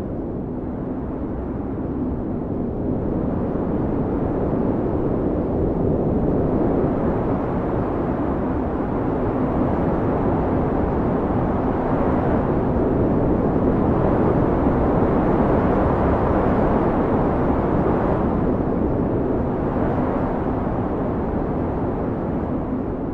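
Howling blizzard wind, a steady rushing noise that swells louder in the middle and eases again near the end.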